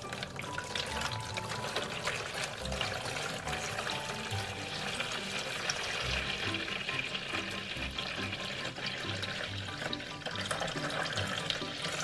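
A stream of water from a toy kitchen sink's faucet splashing into its shallow plastic basin as the basin fills; the splashing cuts off at the very end. Background music with a regular beat plays underneath.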